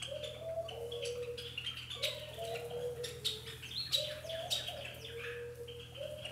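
Birdsong: a low two-part call, a short rise then a held note, repeating every couple of seconds, under many quick high chirps and tweets from small birds.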